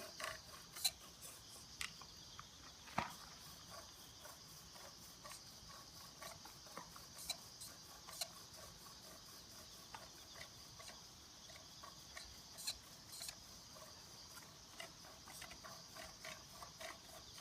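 Faint scattered clicks and small knocks over a steady high hiss, the sharpest about one and three seconds in.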